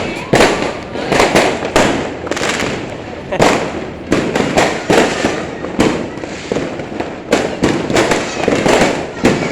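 New Year fireworks going off in a steady barrage: loud, sharp bangs about two a second, without a pause.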